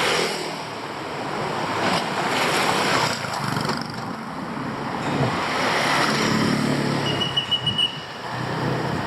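City street traffic: motor vehicles passing with a steady rush of engine and tyre noise. Near the end comes a brief, rapid run of high beeps.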